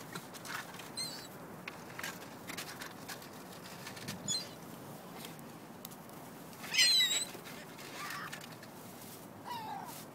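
Seagulls giving short, high squealing calls as they squabble over thrown fish, with the loudest burst of calls about seven seconds in.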